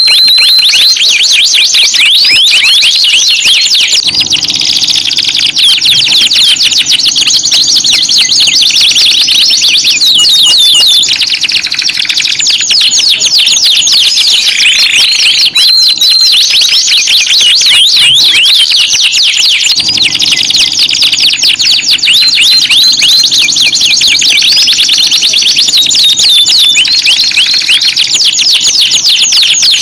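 Domestic canary singing continuously: rapid rolling trills and chattering runs, with brief held whistled notes. The song is played as a lure track to set silent canaries singing, and the same stretch of song seems to repeat about every 16 seconds.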